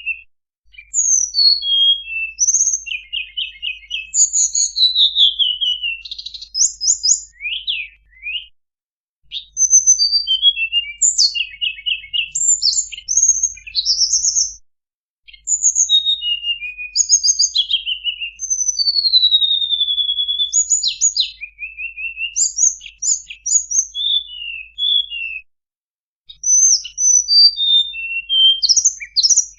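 Recorded song of the tledekan bambu, played as a bird-trapping lure: a fast, varied run of high chirps, trills and slurred whistles, with short pauses about 9, 15 and 26 seconds in. A faint low hum lies underneath.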